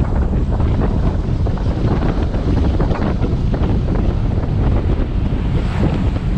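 Wind buffeting the microphone of a camera on a moving motorbike, a steady low rushing with the bike's engine and road noise mixed beneath it.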